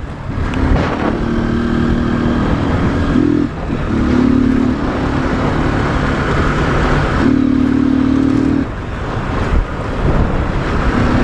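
Motorcycle engine under way, revving in several surges of a few seconds each, with short throttle lifts between them about a third of the way in and again past the middle.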